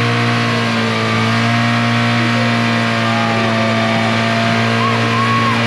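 Car engine running loudly, held at steady revs without rising or falling.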